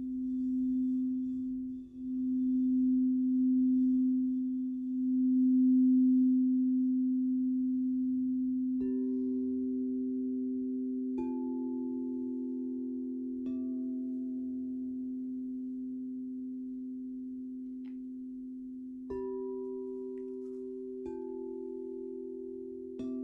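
Crystal singing bowls. A low bowl hums, swelling and fading several times in the first six seconds, then rings on and slowly fades. Five soft strikes on higher-pitched bowls follow, each adding a new ringing note that hangs over the low hum.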